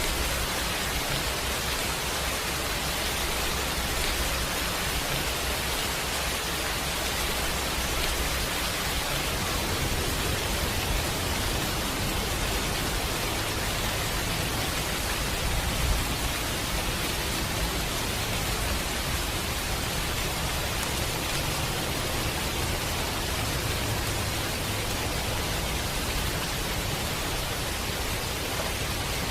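Steady rain falling, an even hiss with no let-up. A low rumble swells under it through the middle, with one brief louder moment about halfway.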